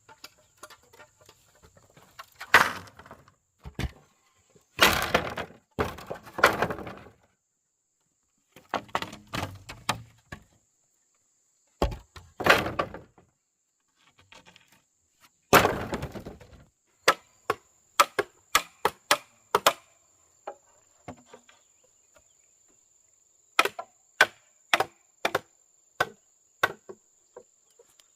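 Wood being chopped and broken: scattered cracking crashes, then a quick run of sharp strikes that grow more spaced out toward the end.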